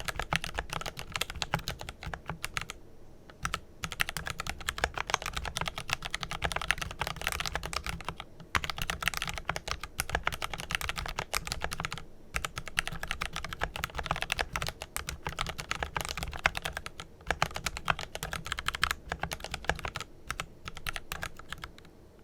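Fast, steady typing on a Glorious GMMK Pro mechanical keyboard with lubed tactile Kailh Pro Purple switches, a dense run of key clicks broken by brief pauses every few seconds.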